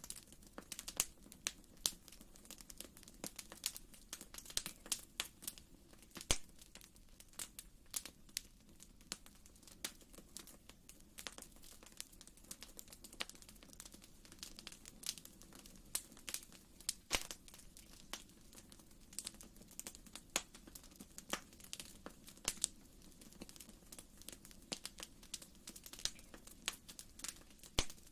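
Wood fire crackling in a fireplace: irregular sharp pops and snaps, several a second, over a soft steady low rumble.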